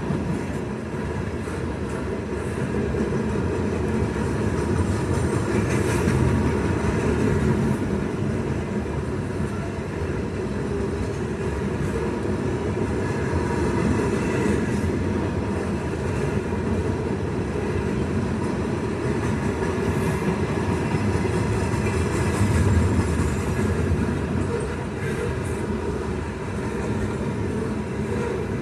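Freight train boxcars rolling steadily past a grade crossing: a continuous rumble of wheels on rail. No crossing bell sounds, because the crossing's Safetran Type 3 electronic bell is dead.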